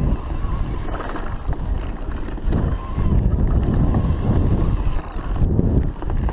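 Steady low rumbling wind noise buffeting the microphone, with a faint thin whine coming and going.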